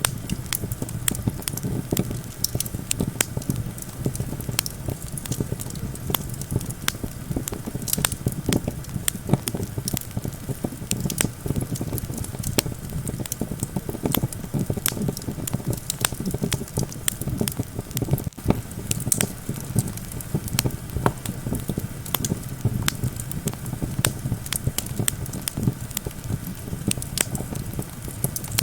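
Campfire crackling with frequent sharp pops, over a steady low rumble of wind.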